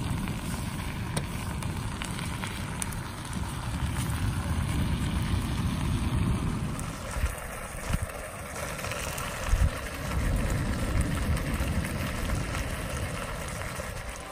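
Steak and vegetables sizzling and simmering in sauce in a Jetboil Summit Skillet over a Jetboil MiniMo gas burner, with wind rumbling on the microphone.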